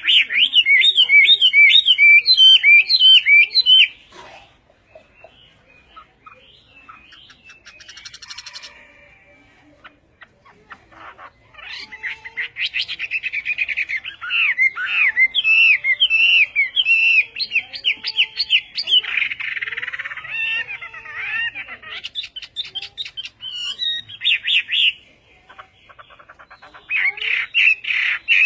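A songbird singing in long, loud phrases of rapid, varied warbling notes. The phrases are broken by quieter pauses of several seconds, and shorter bursts come near the end.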